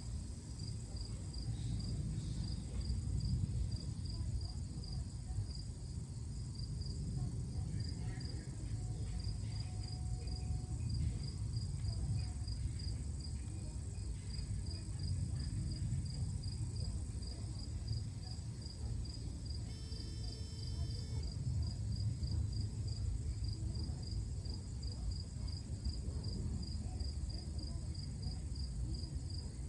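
An insect chirping steadily, in a regular train of high-pitched pulses about three a second, over a continuous low rumble.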